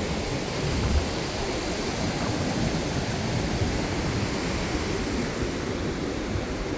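Ocean surf washing onto the beach: a steady, even wash of water with no breaks.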